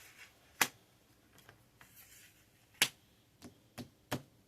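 Five short, sharp clicks or snaps spaced irregularly over a few seconds, the second and last three close together near the end.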